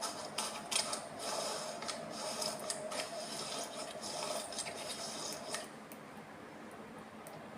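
Slime being squeezed and poked by hand, a dense run of crackling clicks that thins out and gets quieter about six seconds in.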